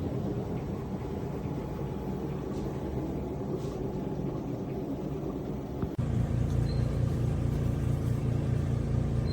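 ROVSUN 850 W portable front-load tumble dryer running with a steady motor hum. About six seconds in the sound cuts abruptly to a louder, deeper, steadier hum.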